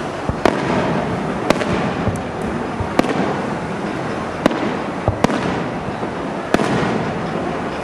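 Aerial firework shells bursting: about seven sharp bangs at irregular gaps of roughly a second, over a continuous noisy background of the display.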